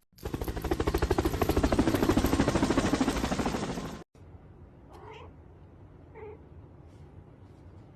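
Domestic cat purring loudly and rapidly close to the microphone for about four seconds, cutting off abruptly. Two faint short meows follow.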